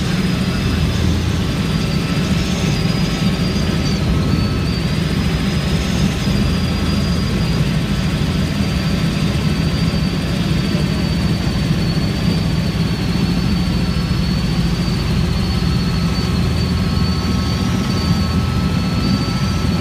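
Helicopter in flight: a steady, rapid low rotor beat with a thin high turbine whine above it.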